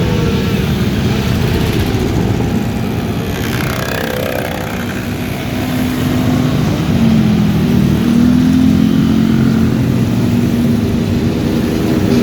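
Motorcycle engines running in a passing convoy, a steady mix of exhaust noise, with one engine revving up and getting louder about seven seconds in.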